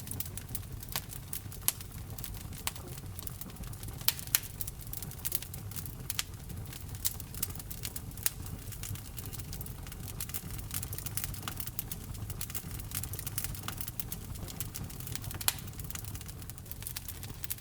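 Wood fire crackling in a fireplace: irregular sharp pops and snaps, a few much louder than the rest, over the steady low rumble of the burning flames.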